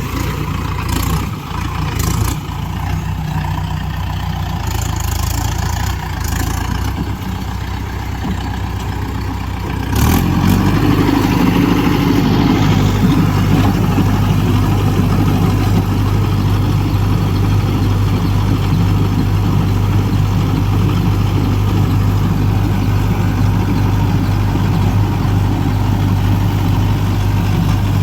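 Diesel tractor engine running steadily. About ten seconds in there is a sharp knock, and the engine gets louder and stays louder, as under more throttle or load.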